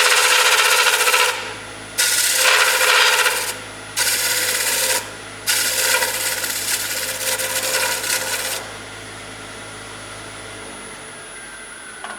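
Wood lathe running, with a turning tool working the spinning wood in four passes of one to three seconds each. Near the end the motor hum stops and a falling whine follows as the lathe spins down.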